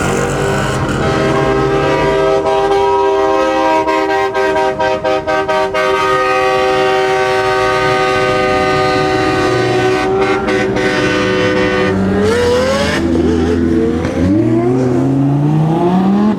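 Supercar engine running loud at a steady pitch, with a few brief dips about four to six seconds in, then rising in pitch as it revs and accelerates near the end.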